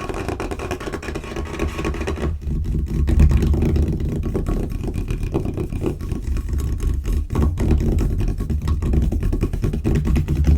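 Hands rapidly tapping, scurrying and scratching on a tabletop, making a dense, continuous rumble with no clear gaps between strokes.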